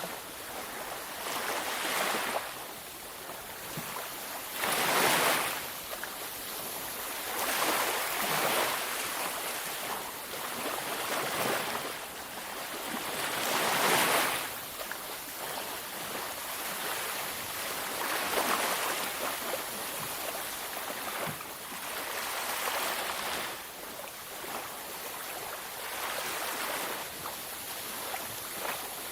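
Ocean waves breaking on a beach, the surf rising and falling in swells every few seconds, two of them louder about five and fourteen seconds in.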